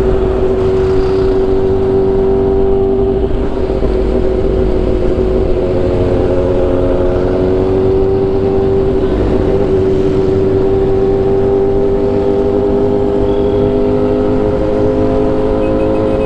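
Motorcycle engine running at a steady, fairly high pitch while cruising, rising and falling slightly, over low wind rumble on the camera microphone.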